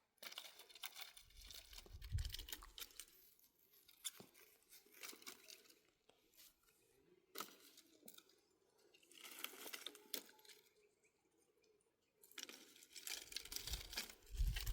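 Faint, irregular bursts of crunching and crackling from dry brush and twigs being broken and handled for firewood, with a short lull and a low rumble coming up near the end.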